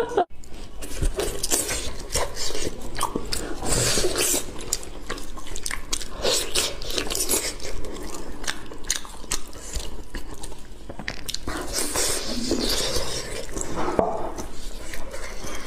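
Close-miked wet chewing and mouth sounds of soft, gelatinous braised trotter skin and meat, with many small smacks and clicks and sticky tearing of the meat by gloved hands.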